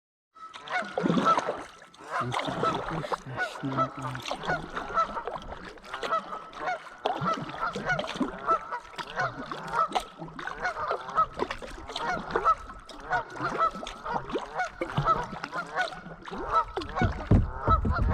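A flock of geese honking, many short overlapping calls repeated throughout, with a few low thumps near the end.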